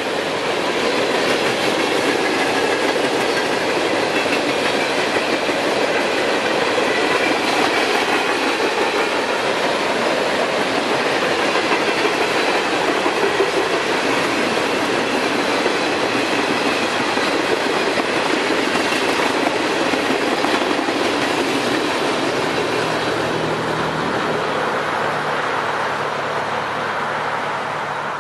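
A Norfolk Southern freight train rolling past at speed, its cars' wheels running steadily on the rails.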